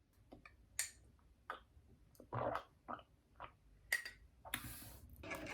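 Biting into and chewing a crusty baguette jambon-beurre sandwich: irregular sharp crunches and crackles of the crust. Background music comes in near the end.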